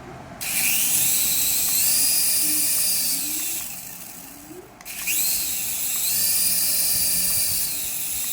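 A small electric motor in a remote-control toy whirring up to a high whine and winding down, twice.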